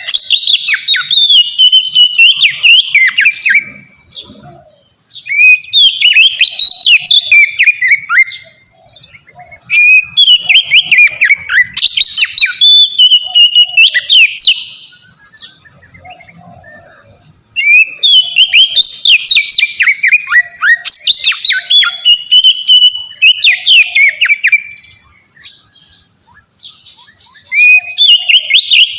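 Oriental magpie-robin (kacer) singing freely and loudly: bursts of rapid, varied whistled phrases with quick rising and falling notes, each burst a few seconds long with short pauses between.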